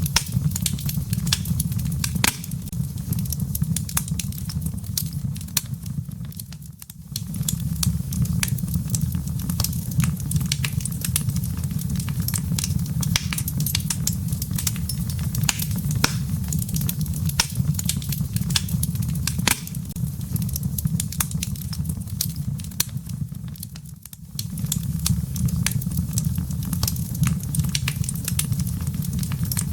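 Wood fire in a fireplace crackling, with frequent sharp pops and snaps of the embers over a steady low rumble. The sound drops away briefly twice, about 7 seconds in and again near 24 seconds, then carries on.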